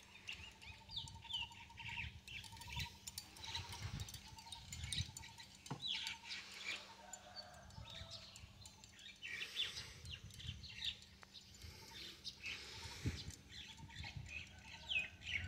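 Birds chirping: many short, high chirps scattered throughout, with a rapid pulsed trill in the first few seconds.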